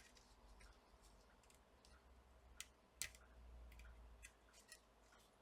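Near silence with a few faint, sharp clicks of a replacement laptop charging port being pushed into its holes in the motherboard for a test fit.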